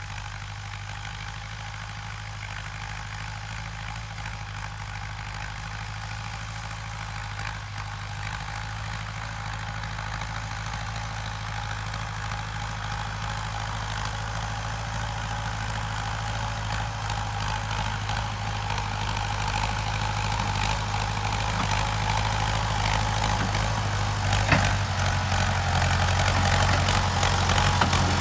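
Ford 6600 tractor's three-cylinder diesel engine running steadily, growing louder as the tractor draws nearer, with a single sharp knock about three-quarters of the way through.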